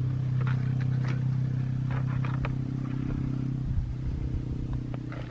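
A steady low engine-like hum that breaks up into a rougher rumble just under four seconds in, with a few light clicks and taps of handling.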